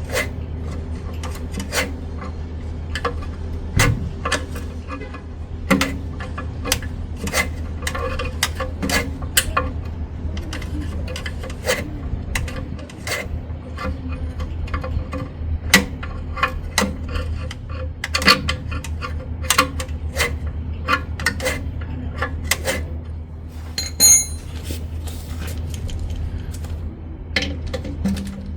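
Irregular metallic clicks and clinks of hand tools working on an engine, over a steady low hum.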